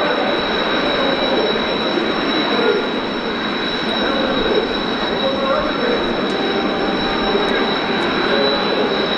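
Jet aircraft engine noise from the Blue Impulse T-4 display jets: a steady loud rush with a constant high whine over it.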